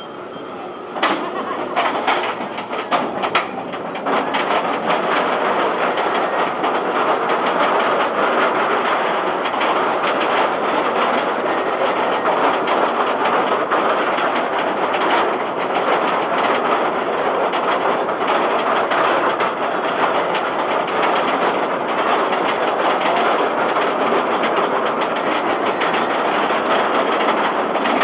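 B&M dive coaster train (Valravn) running along its steel track, a steady rattling rush of wheels on rail and wind. A few sharp knocks come in the first few seconds, then the noise rises and holds at a steady level from about four seconds in.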